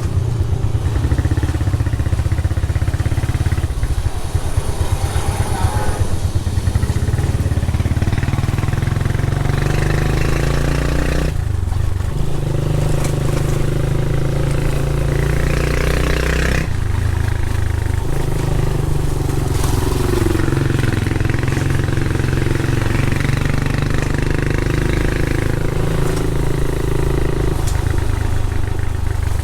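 Motorcycle engine running steadily under way. Its note shifts about eleven seconds in and again about five seconds later.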